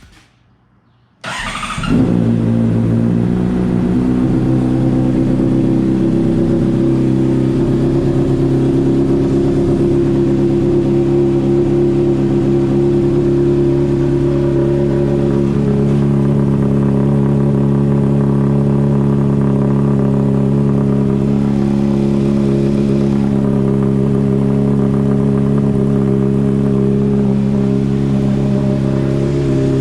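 A 2007 Honda CBR600RR's 599 cc inline-four fires up from cold about a second in, with a quick rise as it catches. It then settles into a steady idle through an aftermarket Hotbodies slip-on exhaust.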